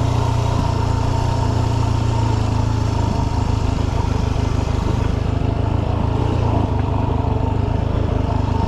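Dirt bike engine running steadily at low revs on a loose, rocky trail, its note easing a little about three seconds in.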